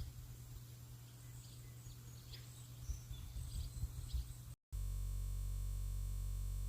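Outdoor ambience: faint short bird chirps over a low rumbling background. About two-thirds through the sound cuts out for an instant, then a flat, unchanging drone holds for about two seconds and stops abruptly, an editing or playback glitch.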